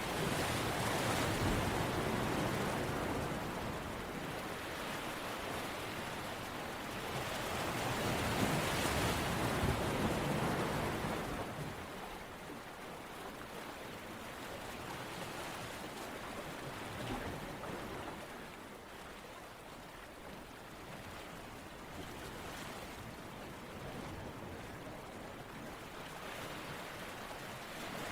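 Steady rushing water noise that swells and fades slowly, louder twice in the first half and quieter after that.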